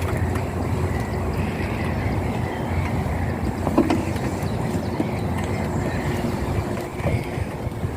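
Magic Mobility Extreme X8 electric all-terrain powerchair driving over a rough, rooty path, its motors running steadily. A short, sharper sound stands out about halfway through.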